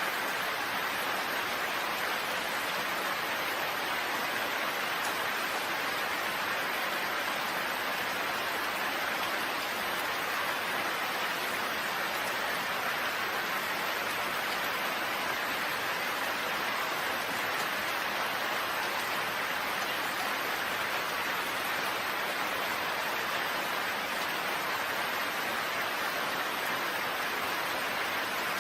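Steady rain falling, an even hiss of drops with no change throughout.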